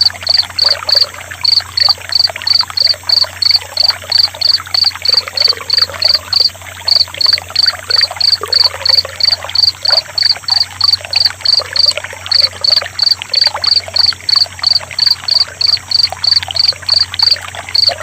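Cricket chirping in a steady, even rhythm, about three chirps a second, over gently trickling, splashing water.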